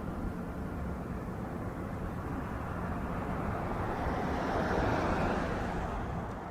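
A vehicle's steady engine rumble that swells about four to five seconds in.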